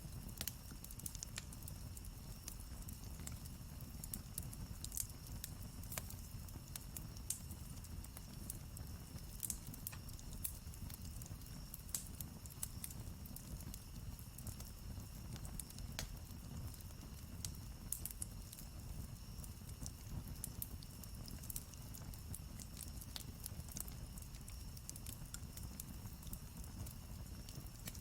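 Campfire burning, the wood crackling with irregular sharp pops and snaps over a low steady rumble of the flames.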